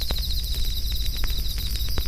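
Campfire crackling, with scattered sharp pops and a low rumble, over a steady fast trill of crickets chirping.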